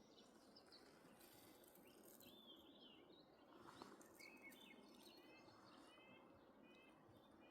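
Faint bird calls: several quick series of short chirps, from about two seconds in, over a quiet steady background hiss.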